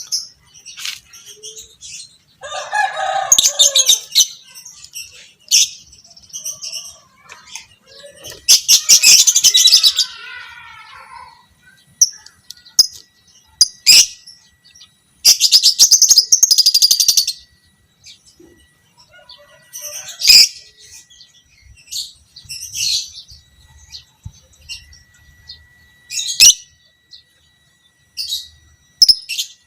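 A lovebird calling in loud bursts of sharp, high chirps and clicks, broken by two long, rapid chattering trills about 8 s and 15 s in, each lasting about two seconds. This is the long 'ngekek' chatter prized in fighter lovebirds.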